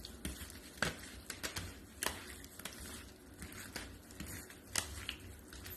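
Seasoned chicken being mixed in a crock pot: faint, irregular clicks and scrapes, a few sharper ones standing out.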